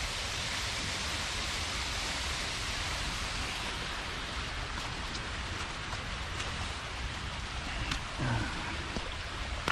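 Steady rushing of falling water, an even wash of noise, with a few faint ticks in the middle.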